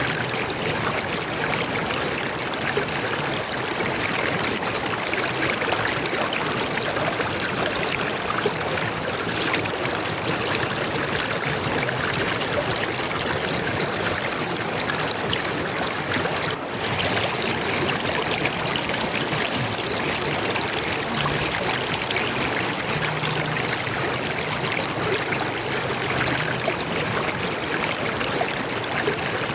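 Flowing water, a steady, even rush like a stream, dipping briefly about halfway through.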